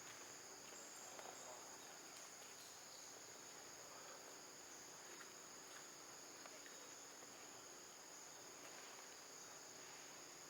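Faint, steady high-pitched chorus of insects, like crickets, droning without a break.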